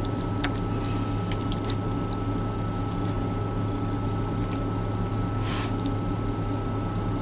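Steady low mechanical hum inside a truck cab, with faint steady tones over it. A few small light clicks and a short rustle about five and a half seconds in.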